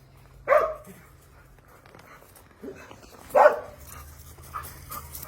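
Dog barking: two loud single barks about three seconds apart, with a softer one just before the second, then fainter dog sounds near the end.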